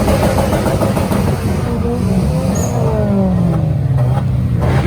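Car engines running, with revs rising and falling over a steady low drone.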